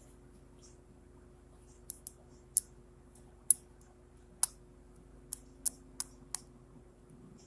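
A series of about nine sharp, irregularly spaced clicks over a faint steady hum, the loudest about halfway through.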